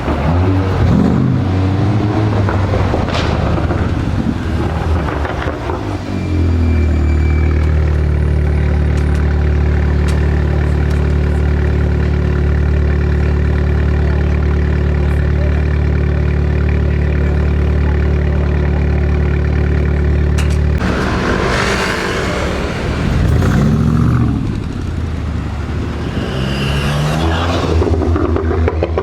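Engines of Brabus-tuned Mercedes-Benz G-Wagons in street traffic: a deep engine idling with a steady low hum for about fifteen seconds, which cuts off suddenly. Before and after it, engines rev and accelerate, their pitch rising and falling as they pull away.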